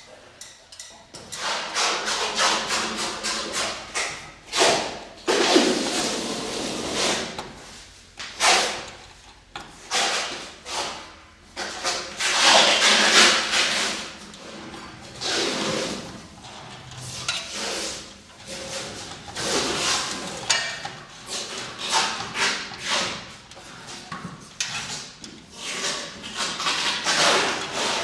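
Irregular knocking, clattering and scraping of hands-on installation work, in bursts of a second or two with short gaps between.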